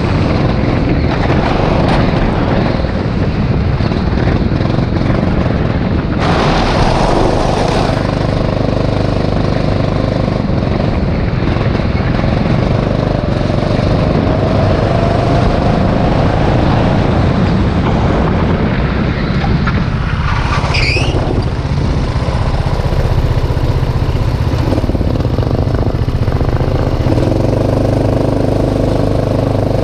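Rental go-kart's small engine running hard on track, its pitch rising and falling with the throttle. There is a burst of hissing noise about six seconds in and a brief high squeal around twenty seconds in.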